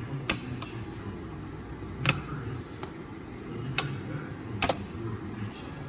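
About five sharp clicks or taps, unevenly spaced, over a low steady hum.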